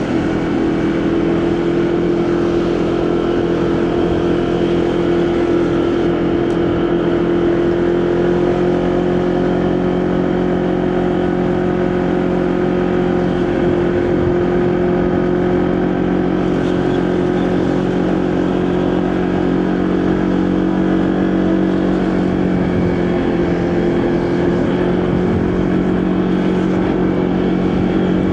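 Motorcycle engine running steadily at cruising speed, its pitch drifting only a little up and down, with wind noise.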